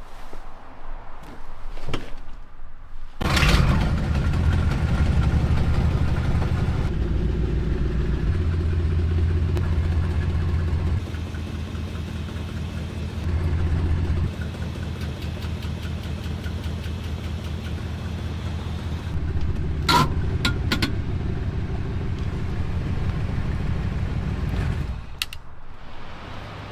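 1962 Ford Galaxie's V8 engine catching about three seconds in after a few clicks, then running for some twenty seconds with its speed rising and falling before it shuts off near the end.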